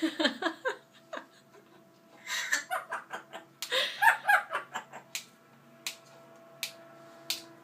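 Pet parrot vocalizing in three short bursts of chattering, laugh-like calls, followed by four sharp clicks about 0.7 seconds apart.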